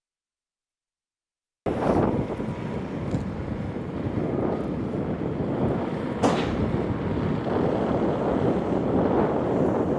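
Wind buffeting an outdoor microphone: a loud, gusting rush that cuts in suddenly after silence about two seconds in, with one sharp click about six seconds in.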